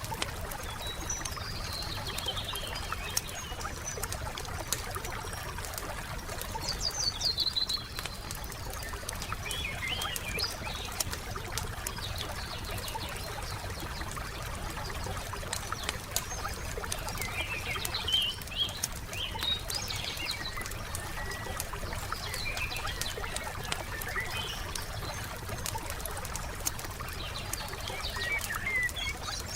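Wood fire crackling with many small snaps, under scattered chirps and short phrases of songbirds.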